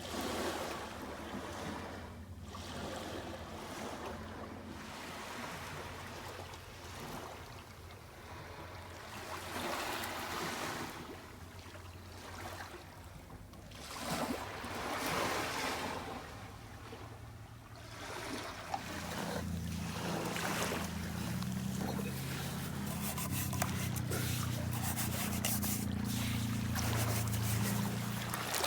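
Small waves washing up a sandy beach, swelling and falling back every few seconds. About two-thirds in, a low engine hum from a passing boat comes in and grows louder.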